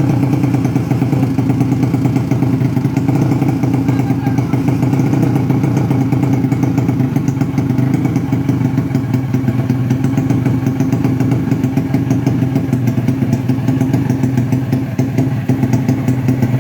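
Motorcycle idling steadily through an A&B Racing Exhaust 59 aftermarket exhaust, the pitch holding level with no revving.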